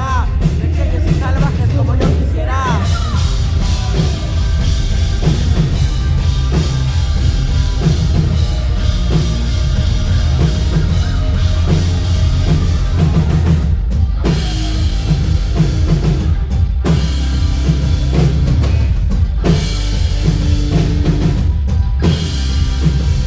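Live band music with a loud drum kit and heavy bass, heard through a concert hall's PA from within the crowd.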